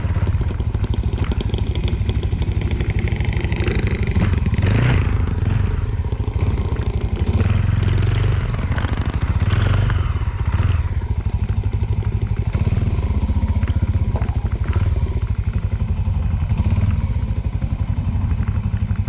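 Small Suzuki motorcycle's engine running steadily while being ridden, a fast even exhaust pulse with a strong low note.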